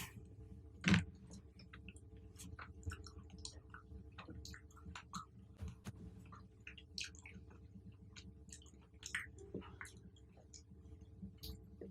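Close-miked chewing of fruit: many short, wet, smacking clicks throughout, with one much louder sharp bite about a second in.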